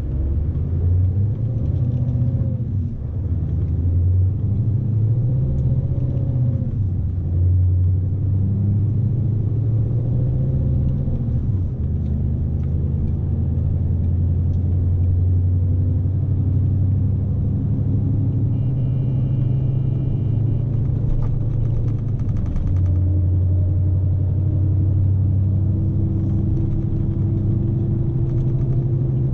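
Scania S520 truck's V8 diesel engine running under load, heard from inside the cab as a steady low drone; its pitch rises and falls over the first dozen seconds, then holds steadier. A faint high tone sounds briefly twice in the second half.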